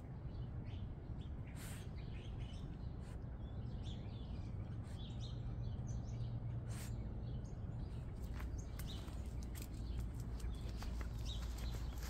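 Small birds chirping in short, scattered calls over a steady low background rumble, with a few light clicks toward the end.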